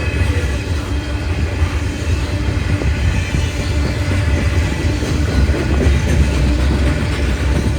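Freight train rolling past, with a steady low rumble.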